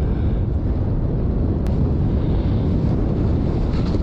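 Wind buffeting the microphone: a steady low rumble, with one faint click about a second and a half in.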